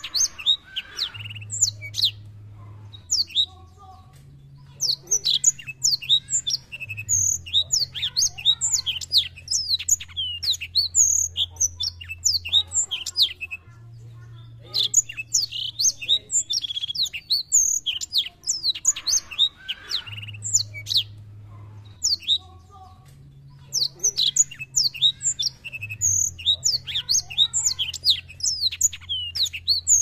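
Black-throated canary singing a fast, twittering song of high chirps and trills in long runs, broken by a few short pauses, with a faint low hum underneath.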